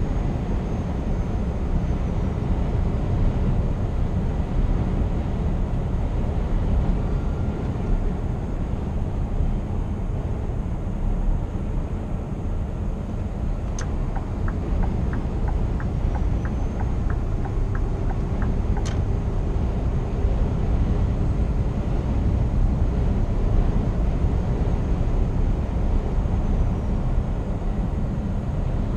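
Steady low rumble of a Scania R490 truck driving, heard from inside the cab: its 13-litre six-cylinder diesel and tyre noise. Midway there are about five seconds of evenly spaced ticking, a few ticks a second, opened and closed by a sharper click.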